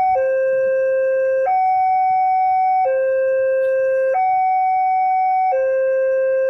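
Railway level crossing warning alarm sounding a two-tone signal, switching between a lower and a higher steady tone about every 1.3 seconds.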